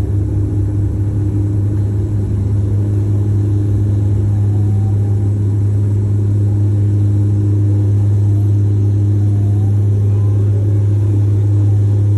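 A steady low motor drone, with a few faint short whistling glides above it.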